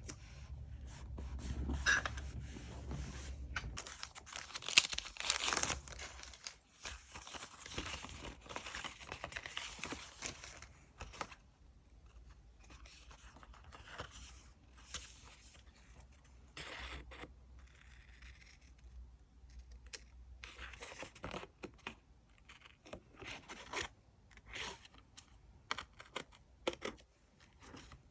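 Paper and stickers being handled for diary decorating: tearing and peeling with rustling paper and small taps, dense over the first ten seconds or so, then sparser.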